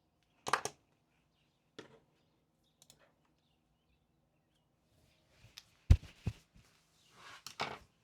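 Things being handled on a desk: a few sharp knocks and clicks, a louder thud about six seconds in, then rustling near the end.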